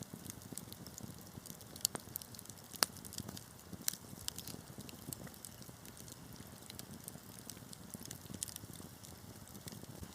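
Wood fire burning with a steady low rumble and irregular sharp crackles and pops, the two loudest pops about two and three seconds in.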